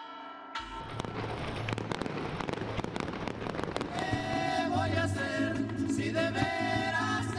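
Fireworks crackling and popping in quick succession, joined about four seconds in by music with violins and voices.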